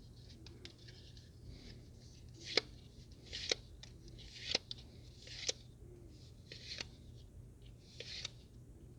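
Pokémon trading cards from a booster pack being flicked through one at a time by hand: a papery swish and a sharp click about once a second.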